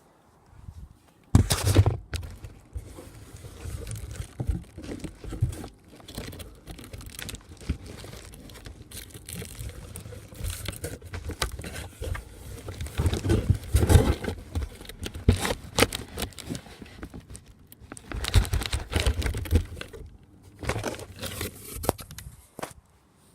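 Cardboard box being struck and crushed with a vacuum cleaner pole: an irregular run of hits with crumpling and tearing cardboard, starting about a second in and stopping shortly before the end.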